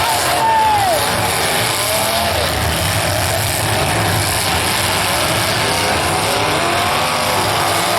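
Demolition derby car engines running and revving over a steady loud din, their pitch rising and falling; one engine's pitch drops sharply about half a second in.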